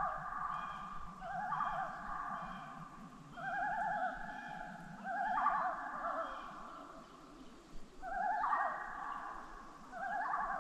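Common loons giving tremolo calls: quavering, laughing calls in about five bouts of a second or so each, with short gaps between them.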